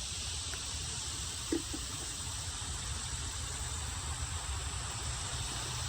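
Steady background noise outdoors: a low rumble with a high hiss over it, and one brief faint sound about a second and a half in.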